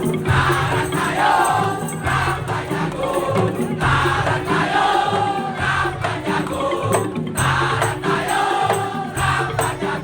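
Madurese daul (tongtong) music: a percussion ensemble of drums and clackers keeping a steady, driving beat under a sung melody.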